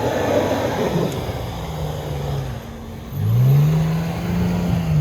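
Off-road vehicle engine revving under throttle: a short steady burst about two seconds in, then the revs climb sharply a little after three seconds and are held high.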